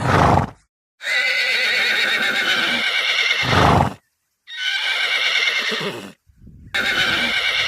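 Horse whinnying: a series of long, quavering whinnies separated by short pauses.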